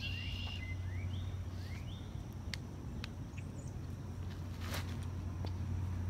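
A bird calling with short rising chirps, several in the first two seconds, over a steady low hum; a few sharp clicks later on.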